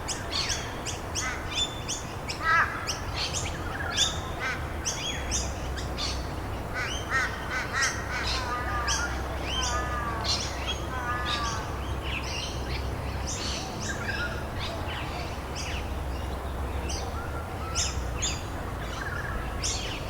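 Several wild birds chirping and calling, many short chirps and quick trills one after another, over a steady background hiss.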